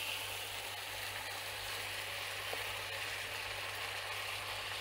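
Vegetables sizzling steadily in a wok, over a low steady hum.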